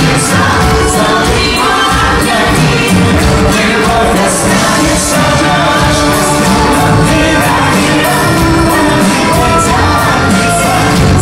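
Live performance of a song: singing with instrumental accompaniment, loud and continuous.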